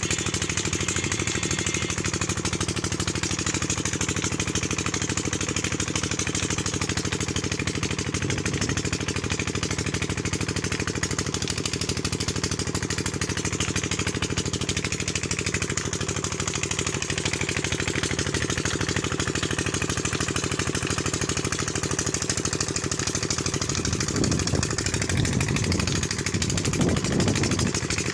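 Diesel engine driving a tubewell pump, running steadily at an even speed. It grows a little louder and rougher for a few seconds near the end.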